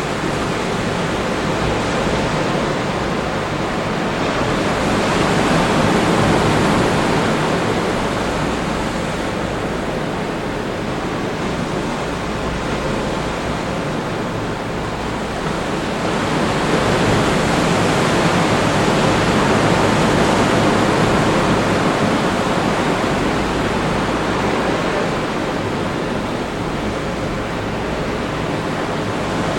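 Atlantic Ocean surf breaking on the beach: a steady rush of noise that swells twice, about five seconds in and again around seventeen seconds.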